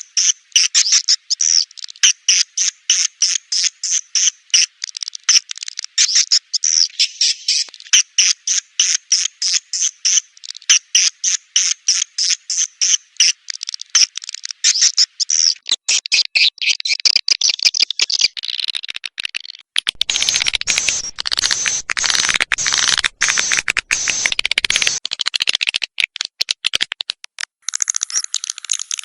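Swiftlet calls of the kind played as a lure sound in swiftlet houses. Quick high chirps repeat evenly at about three a second, then about halfway through give way to denser, overlapping twittering.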